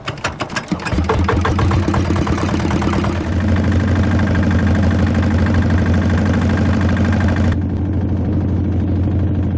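A small fishing boat's engine starts with a spell of clattering clicks and then runs steadily with a loud, low hum. It picks up a little about three seconds in.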